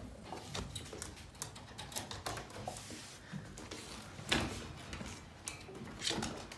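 Scattered light clicks and taps, with a louder knock about four seconds in and another near the end.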